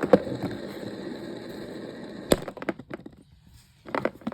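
Old ceiling fan running with a steady whir, then a sharp crack about two seconds in as one of its blades is hit and bent. A scatter of knocks and clicks follows as the whir dies away.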